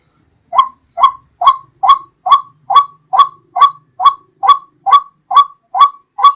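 White-breasted waterhen calling: a steady run of repeated harsh "kru-ak" notes, a little over two a second, starting about half a second in.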